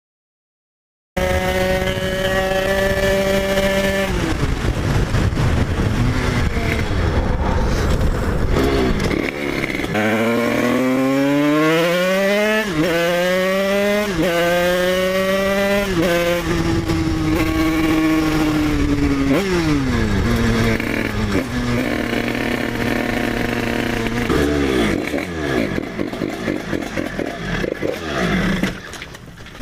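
Dirt bike engine starting about a second in, accelerating hard through several gears: the pitch rises and drops back at each shift, about four times in quick succession. It then runs steadier, with the revs falling off now and then.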